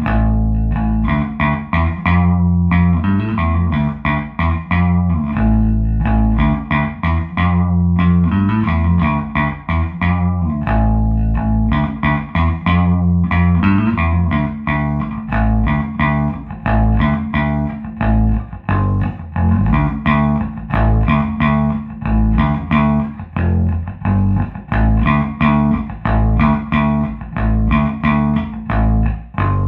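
Electric bass guitar played through a 1973 Fender Twin Reverb Silverface combo amp with two 1978 CTS Fender Special Design speakers, on the amp's normal channel. It is a continuous run of plucked notes in a steady groove.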